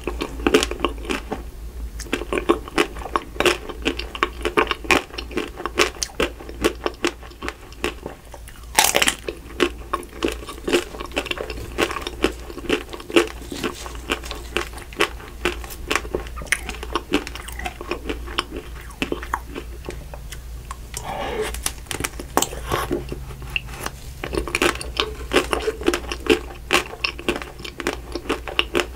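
Close-miked biting and chewing of chocolate-coated ice cream bars: the Magnum Ruby bar's ruby chocolate shell cracking and crunching between the teeth, in a steady run of small crackles with a few louder snaps, about nine seconds in and again a little past twenty seconds.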